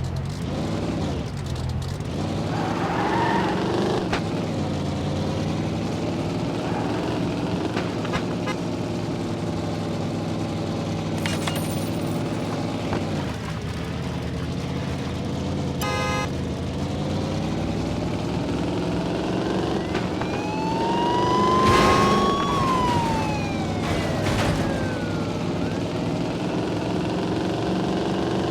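Car engine running, its pitch rising and falling as the revs change, with a short beep about halfway through and a longer rising-then-falling whine near the end.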